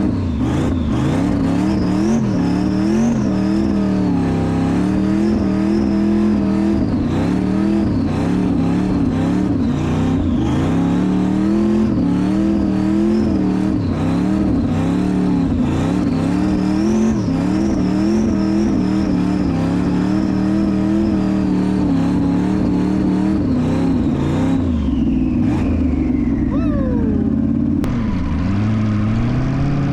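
LS-swapped V8 engine in a BMW E36 revving up and down repeatedly as the car spins its wheels and slides in snow, with a high whine that rises and falls with the revs. About 25 seconds in the revs drop away and the whine falls, then the engine picks up again near the end.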